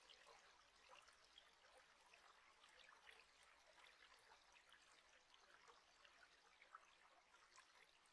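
Very faint running water, a stream trickling with many small irregular splashes.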